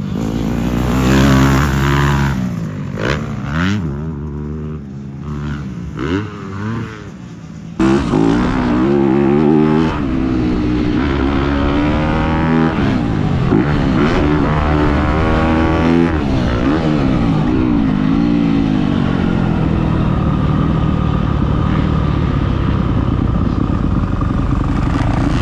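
Motocross dirt bike engine revving up and falling back again and again as the throttle is opened and closed, with an abrupt change in the sound about eight seconds in.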